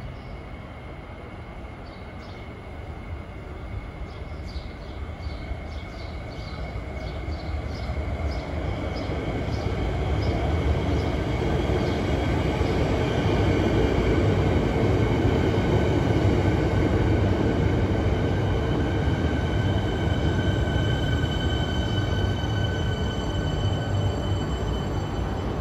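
Electric suburban train approaching along the track, growing louder over about ten seconds and then running steadily, with a rumble of wheels on rail. A run of light clicks sounds early on, and steady high whines from the motors or wheels sound through the louder part.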